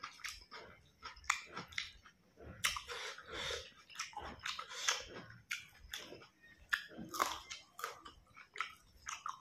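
A person chewing and biting food with the mouth close to the microphone: irregular wet clicks and crunches with a few sharper, louder snaps, as mouthfuls of rice and pork curry are chewed and a raw green chilli is bitten into.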